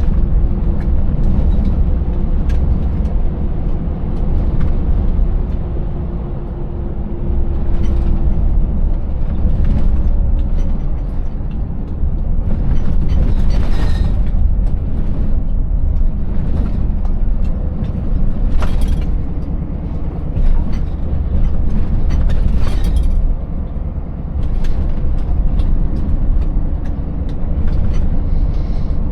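Scania 590S 16-litre V8 truck running on a rough road: a steady deep engine and road rumble with scattered knocks and rattles, and a few brief hisses.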